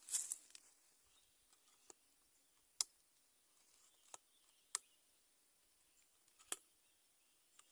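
A brief rustle, then sharp, isolated clicks and snaps every second or so over a faint steady high hiss.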